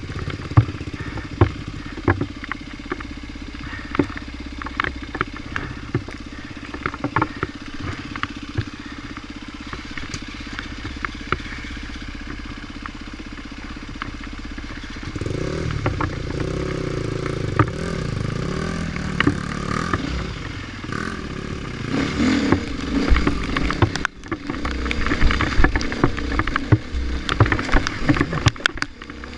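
Off-road dirt bike engine running at low revs amid sharp ticks and knocks, then revving harder and louder from about halfway through as the bike is ridden on, with a brief drop near the end.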